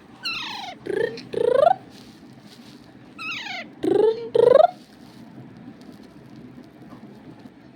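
Green parrot calling: a run of three short, shrill, gliding calls near the start, then another run of three about three seconds later.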